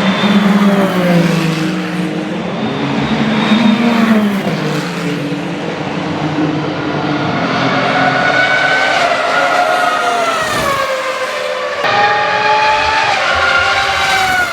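Ferrari racing car engines running at high revs on track, the pitch falling and rising again and again through gear changes. The sound shifts abruptly about twelve seconds in.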